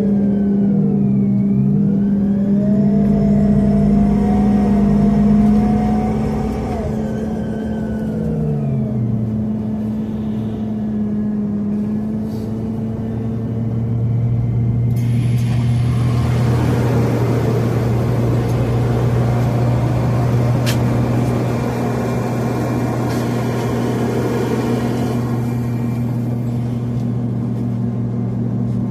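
Scania CN270UB city bus with a compressed natural gas engine, heard from inside. A whine dips and rises in pitch over the first several seconds under a steady low hum. From about fifteen seconds in, a broad rushing road noise builds over the steady running.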